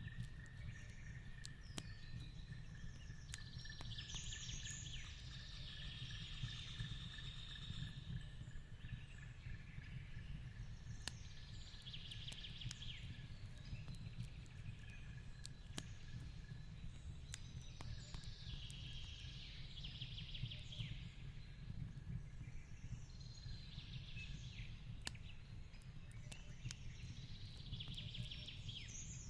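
Fireplace crackling, with sparse sharp pops over a low steady rumble. A bird calls again and again, a few seconds apart, over a thin steady high tone.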